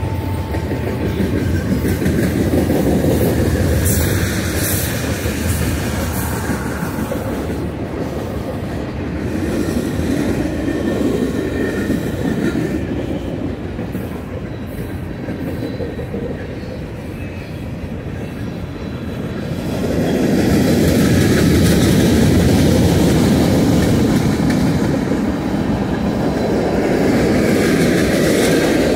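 Freight cars of a mixed train, boxcars, covered hoppers and tank cars, rolling past a grade crossing: a steady noise of steel wheels running on the rails, growing louder about twenty seconds in.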